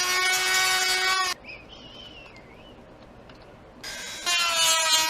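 Small handheld power tool whining at a steady pitch, stopping about a second and a half in and starting up again near the end.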